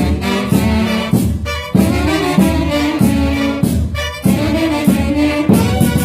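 Band music led by horns such as trumpets or saxophones, playing repeated melodic phrases over a steady bass beat.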